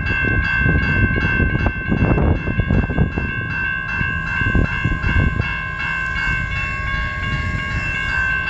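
Grade-crossing warning bell ringing rapidly, about three strokes a second, over the low rumble of an approaching CN freight train.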